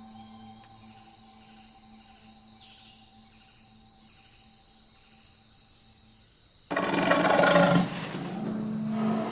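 Soft ambient music over a steady high insect drone. About two-thirds of the way in, a tiger suddenly roars loudly, easing off a little after about a second.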